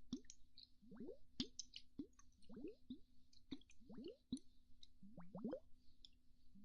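Quiet, close-miked ASMR mouth pops: a run of wet popping sounds, each sweeping sharply up in pitch, coming singly or in quick clusters about every half second.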